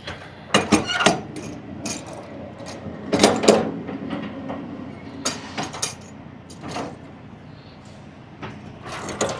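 A series of irregular knocks and clicks, like objects being handled, over a faint steady low hum.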